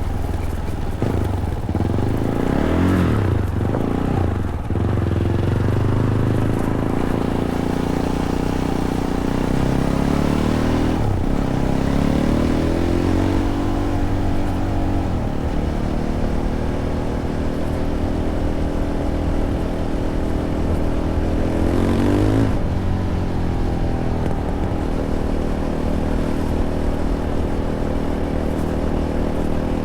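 Fantic Caballero 500's single-cylinder engine running through its stock Arrow exhaust, ridden at a steady pace. The revs rise and fall a few seconds in, again about 11 seconds in, and once more about 22 seconds in.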